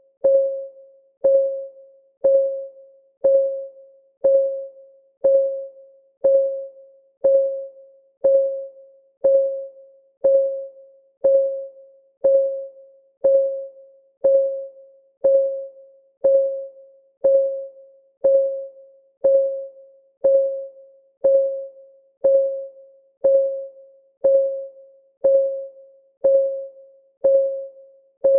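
Countdown timer's clock-ticking sound effect: one tick a second, steady, each tick a short tone of the same pitch that dies away quickly.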